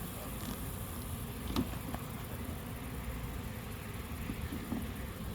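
Honey bees buzzing around an opened hive, a steady low hum, with a few light knocks of the wooden hive parts; the sharpest comes about a second and a half in.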